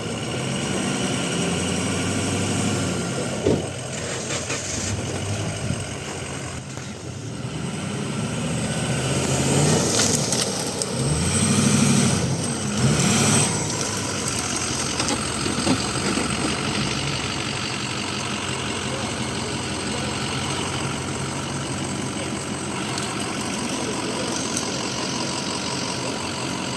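Off-road vehicle engine running under load, revved up and back down several times about a third of the way in, with a single short knock early on.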